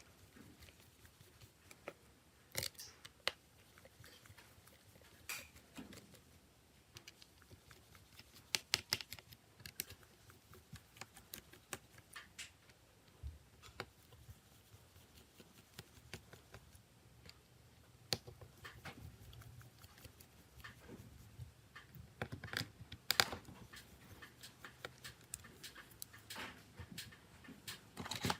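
Small, irregular clicks and taps of hand tools and phone parts being handled during smartphone repair work, with a few sharper knocks now and then.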